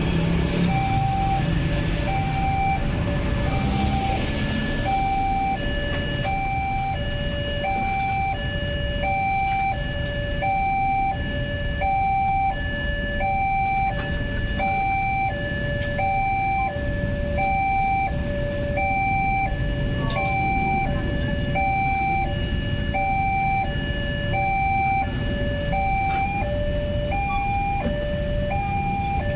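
Electronic warning alarm of a railway level crossing, sounding a steady two-tone high-low pattern about once a second over road traffic noise. Near the end a second alarm tone joins, slightly out of step with the first.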